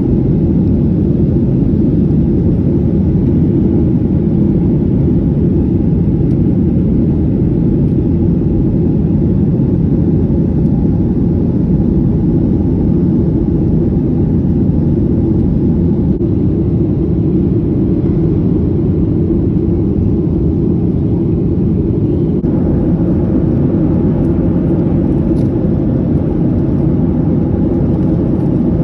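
Steady low rumble of an airliner's jet engines and airflow heard from inside the passenger cabin, with the higher hiss rising slightly about two-thirds of the way through.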